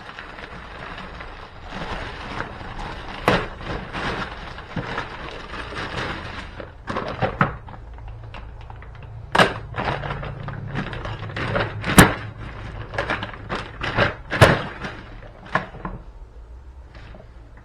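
A series of irregular hard knocks and thuds, a few of them sharp and loud, over a steady hiss that dies away about seven seconds in.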